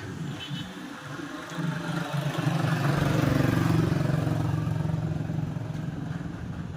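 Honda XRM 125 Fi's single-cylinder four-stroke engine running, swelling to its loudest about three seconds in and then easing slightly.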